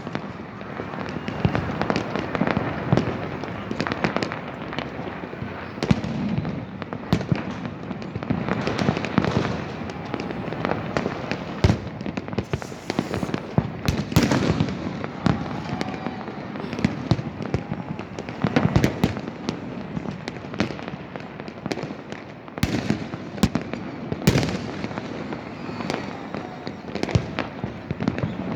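Many fireworks and firecrackers going off at once: a dense, unbroken run of bangs and pops, with louder bangs every few seconds.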